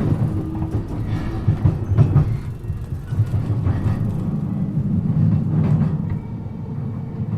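JR East E233-7000 series electric commuter train running between stations, heard from inside the car: a steady low rumble of wheels on rail, with a few sharp clicks from the track about two seconds in.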